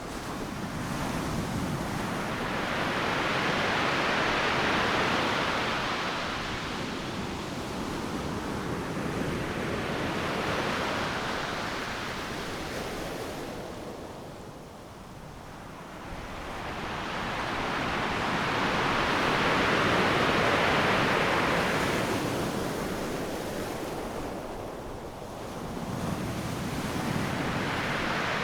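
Ocean waves breaking on a beach: a steady wash of surf that swells and fades in four slow surges, one every six to seven seconds.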